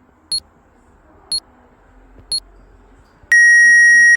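Electronic countdown beeps: three short, high-pitched beeps about a second apart, then a long, loud, lower-pitched beep about three seconds in.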